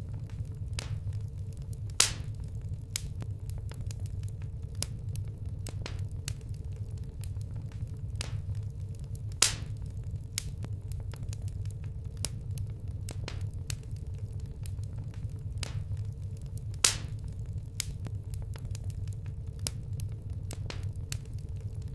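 Wood campfire burning, with frequent small crackles and three louder pops spread through, over a low steady rumble.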